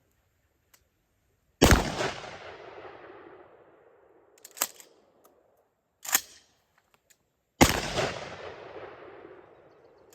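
Two blasts from a 12-gauge Remington 870 pump shotgun with a short 12.5-inch barrel firing buckshot, about six seconds apart, each trailing off over a couple of seconds. Between the shots come two sharp clacks about a second and a half apart, the pump action being worked back and forward.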